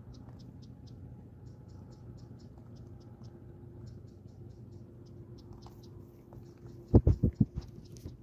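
Dogs crunching dry kibble near the microphone as faint, scattered clicks over a low hum. About seven seconds in, a quick run of five or six heavy, dull thumps.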